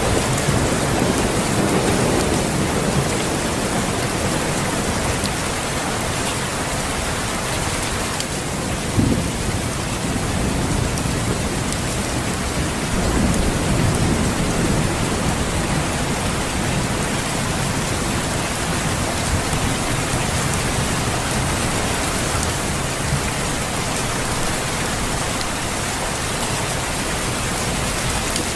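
Steady heavy rain with rolls of thunder: low rumbles swell and fade near the start and again about halfway through, with a brief louder thump about nine seconds in.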